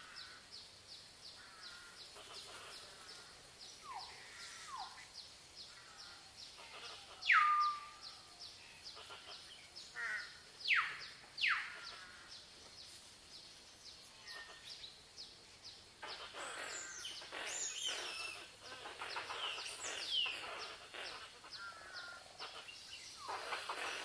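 Birds calling in tropical forest: several loud whistles that slide steeply down in pitch, the strongest about seven and eleven seconds in, over a fast, even ticking chatter. From about two-thirds of the way through, a busier chorus of chirps and calls takes over.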